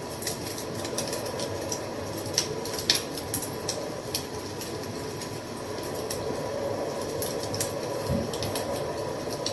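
Wood fire burning with a steady low hiss and irregular sharp crackles and pops, one louder pop about three seconds in.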